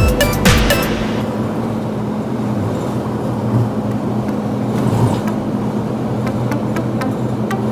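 A road vehicle running steadily, a low engine hum with road noise; music with a beat cuts off about a second in.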